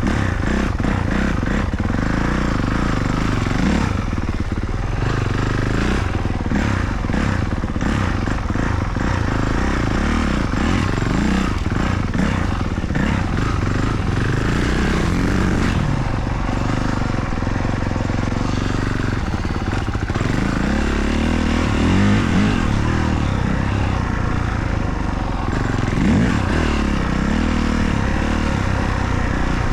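Motocross dirt bike engine being ridden hard round a track, revving up and down over and over, its pitch rising and falling with each burst of throttle, over a steady rush of noise.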